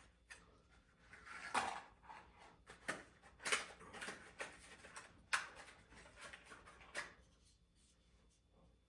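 Unpacking a camera kit by hand: rustling packaging and scattered light clicks and knocks of small parts being set down, fading out about seven seconds in.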